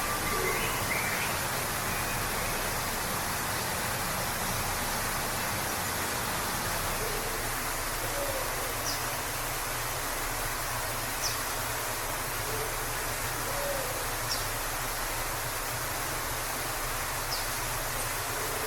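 Waterfall rushing steadily. Faint bird calls sound over it: a short high chirp about every three seconds from the middle on, and softer low calls now and then.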